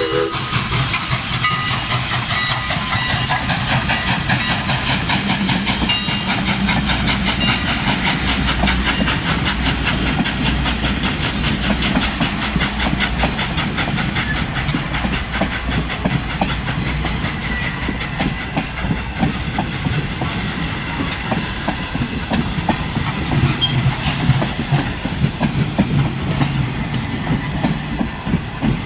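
A steam train rolling past close by: continuous rapid clicking and clatter of the wheels over the rails, with a hiss of steam.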